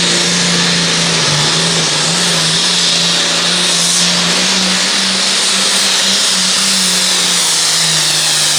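Turbocharged diesel pulling tractor's engine at full throttle, dragging the weight-transfer sled down the track, its note holding steady with slight wavers.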